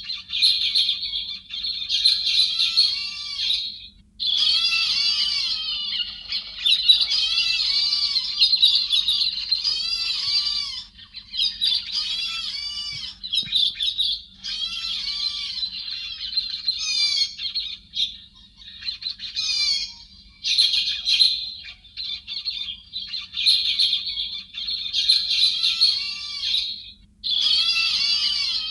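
Thrushes (Vietnamese chim héc xoan) calling together, many squeaky, arching call notes overlapping in chattering bouts with brief pauses between them. It is a lure recording meant to draw a flock in.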